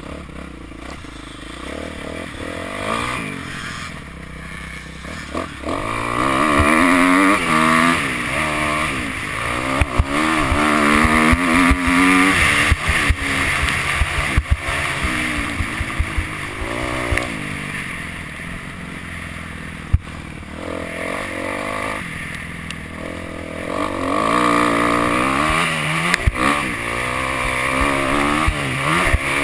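Motocross bike engine repeatedly revving up and dropping back as the rider accelerates, heard from on board, with many sharp knocks as the bike rides over the rutted dirt.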